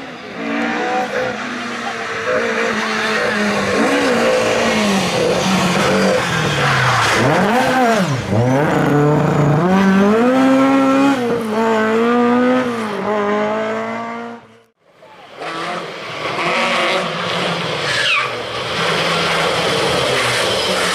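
Historic rally car engine revving hard, its pitch repeatedly climbing and dropping with gear changes and lifts. Just before the last quarter the sound cuts out abruptly and another rally car is heard, its engine rising as it approaches.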